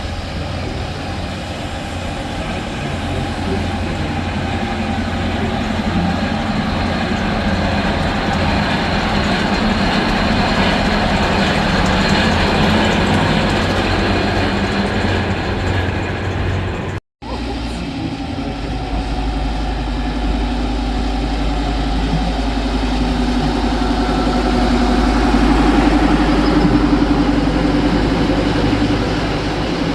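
A rail vehicle running with its engine going steadily, with a deep low rumble that grows stronger after a short break just past halfway.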